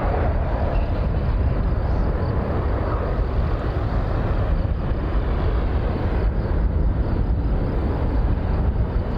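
Dassault Falcon 6X's twin Pratt & Whitney PW812D turbofans as a steady low jet rumble while the jet climbs away after takeoff, the upper part of the noise easing slightly after the first second.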